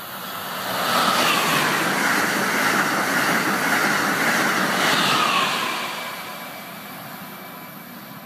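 Amtrak Acela high-speed electric train passing through a station at speed: a rushing noise of wheels and air that builds over about a second, holds for some four seconds as the cars go by, then fades as the train moves away.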